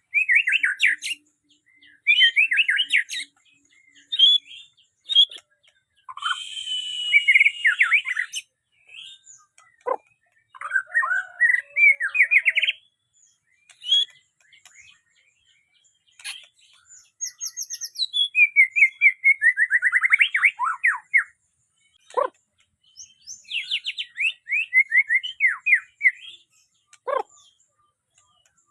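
White-rumped shama (murai batu) singing: bursts of rapid, varied whistles and trills separated by short pauses, some phrases with harsh, scratchy notes.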